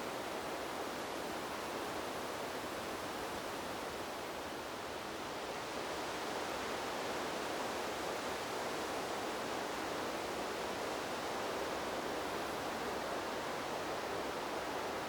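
Wind blowing through trees, a steady rushing hiss with no gusts or distinct leaf rustles. It eases slightly about four to five seconds in, then swells back a little.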